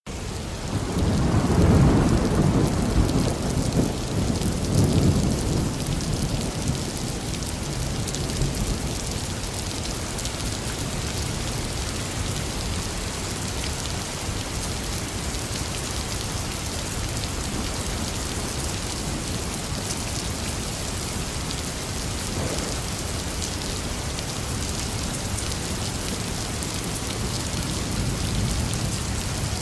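Heavy rain falling steadily in an even hiss, with a low rumble of thunder in the first few seconds.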